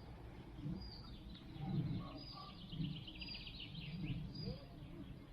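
Small birds singing: short high calls repeat about once a second, and a rapid trill runs through the middle, over an uneven low rumble.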